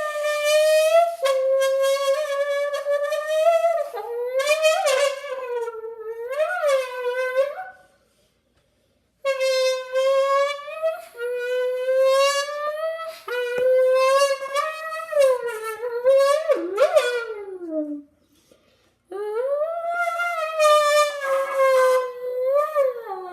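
Lamborghini engine imitation made by vocalizing into a squeezed can: a buzzy, horn-like tone, held steady and then swooping up and down like revving. It comes in three long runs with short breaks between them.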